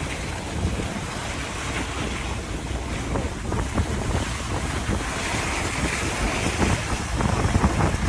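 Storm wind buffeting the microphone in gusts over a steady rushing noise, which grows brighter and hissier for a couple of seconds about five seconds in.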